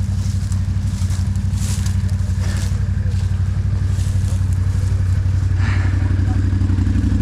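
ATV engine running steadily at low speed with a rapid low pulsing hum, picking up a little about five and a half seconds in.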